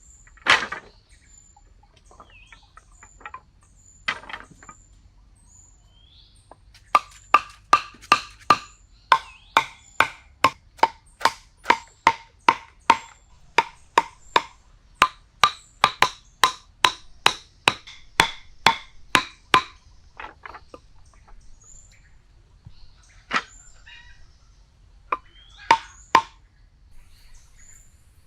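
Repeated sharp, ringing knocks on something hard, about two or three a second for some thirteen seconds, with a few single knocks before and after. Faint high chirps sound between them.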